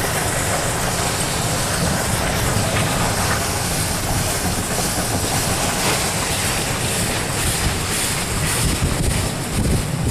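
Steam-hauled train running along the track: a steady, continuous rumble with wind noise on the microphone.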